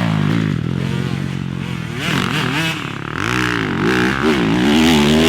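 Dirt bike engine revving up and down as the throttle is worked, its pitch dropping, then dipping and rising several times, and climbing again near the end.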